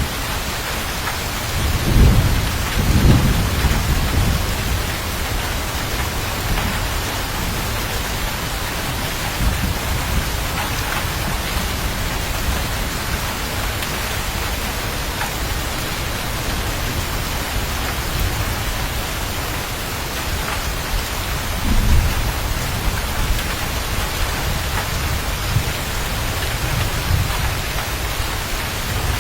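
Steady heavy rain with rolling thunder: low rumbles swell about two and three seconds in, and again past the middle, over an even hiss of rain.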